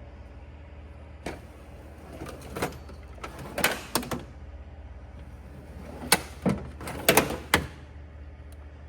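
Tools and hardware clattering and clinking as someone rummages through them by hand, in several bunches of sharp knocks and rattles, over a steady low hum.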